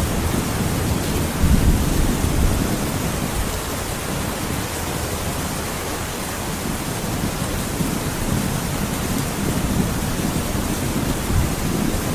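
Steady heavy rain hiss with low rolling thunder, the rumble fading over the first couple of seconds and building again near the end.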